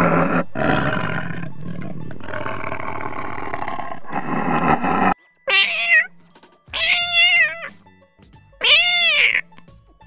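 A tiger growling in long, rough roars that cut off suddenly about five seconds in; then a kitten meowing three times, high calls that rise and fall.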